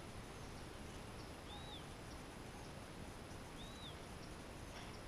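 Quiet steady outdoor hiss with two faint, short, high bird chirps about two seconds apart.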